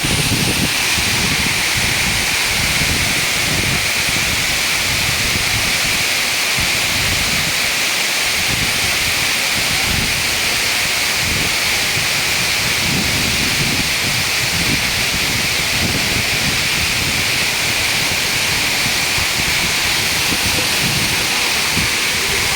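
Waterfall: a loud, steady rush of falling water with an uneven low rumble underneath.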